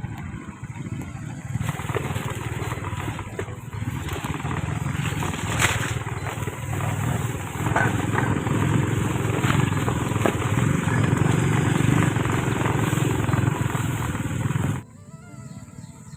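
Motorcycle engine running under way on a rough trail, with knocks and rattles over the bumps; it cuts off suddenly near the end.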